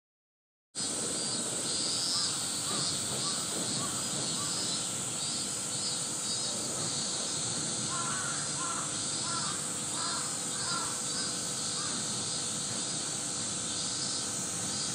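Outdoor ambience: a steady hiss with faint, short bird calls repeated in small runs, most of them about eight to eleven seconds in. It starts abruptly after a moment of silence.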